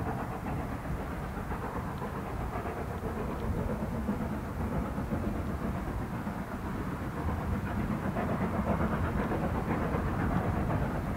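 A train running in the distance: a steady, even rumble of locomotive and coaches on the rails, growing a little louder in the second half.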